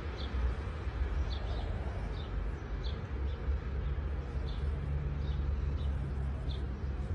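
Small birds chirping now and then, short high chirps at irregular intervals, over a steady low rumble.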